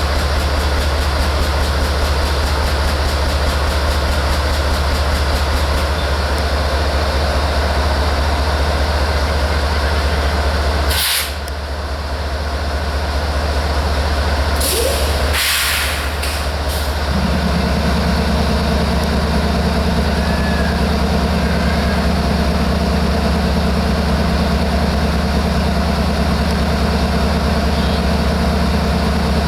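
Diesel locomotive idling with a steady low drone, with short air hisses from the air brakes about eleven seconds in and twice around fifteen seconds. A second, higher steady hum joins at about seventeen seconds.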